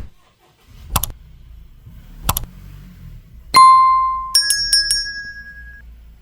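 Two sharp clicks, then a single bright ding that rings out, followed by four quick bell-like chime notes that ring on.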